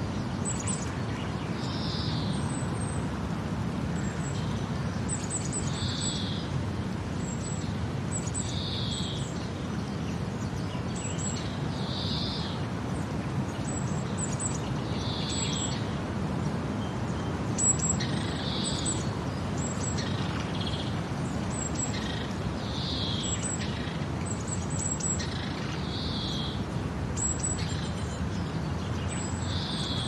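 Birds calling over a steady low background noise: one short call repeats about every three seconds, with quick, high chirps scattered between.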